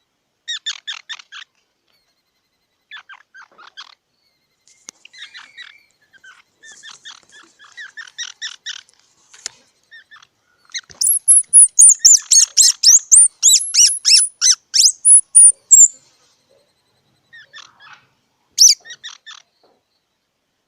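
Squirrel giving bouts of rapid, high-pitched chirping calls, several a second, with short pauses between bouts. The loudest and fastest run comes in the middle, with some calls sliding down in pitch.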